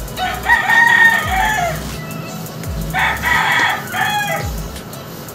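A bird calling loudly twice, each call lasting more than a second, the first call the louder.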